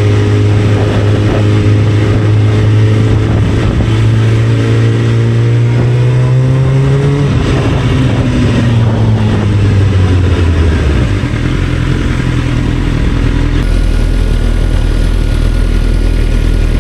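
Motorcycle engine heard from on the bike. Its pitch climbs steadily for about seven seconds as it pulls, falls as it slows, and settles to a low steady idle about eleven seconds in.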